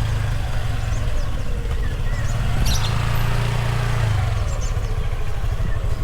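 Caged birds chirping briefly and faintly several times, most clearly about two and a half seconds in, over a steady low rumble.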